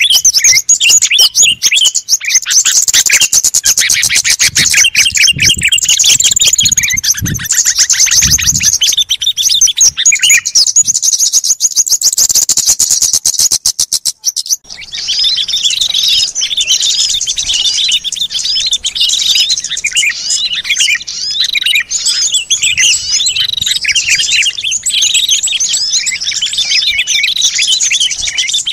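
Bird-lure recording of many small songbirds chirping and twittering at once, a dense chorus of high, rapid calls. About halfway through it breaks off for a moment and a different chattering chorus takes over.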